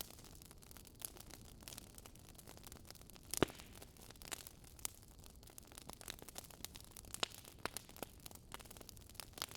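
Wood fire crackling: a faint hiss with irregular sharp pops, one louder pop about three and a half seconds in.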